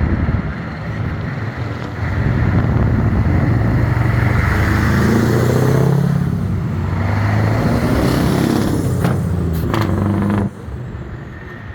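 Vintage truck engines running as trucks drive past, with one engine's pitch rising midway as it accelerates. A few sharp sounds come near nine seconds in, and the engine noise drops off suddenly at about ten and a half seconds.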